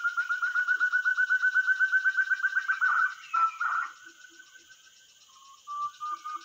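Forest quail calling: a fast run of clear, evenly repeated notes, about nine a second and rising slightly. It breaks off about three seconds in and starts again near the end, with a few soft low hoots in between.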